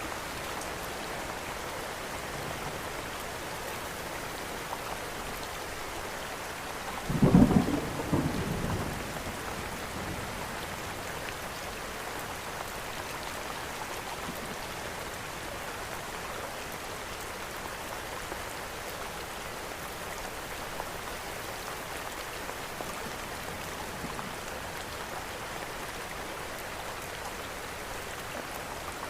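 Steady rain falling, with one brief low rumble of thunder about seven seconds in, the loudest moment, dying away over about two seconds.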